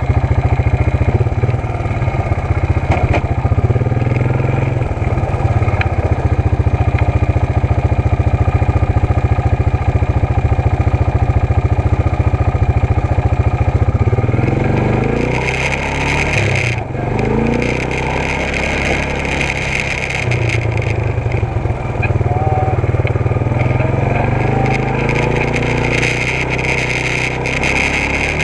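ATV engine running while riding, a steady low pulsing engine sound that changes character about halfway through as the throttle changes.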